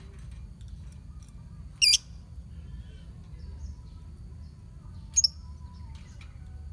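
A colony of lovebirds calling: two loud, short, shrill calls about two and five seconds in, with fainter chirping between them, over a low steady hum.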